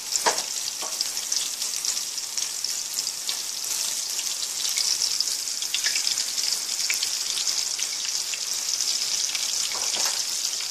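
Flour-dredged pork chops frying in shallow hot oil in a large stainless steel pan: a steady, high sizzle with many small crackles and pops.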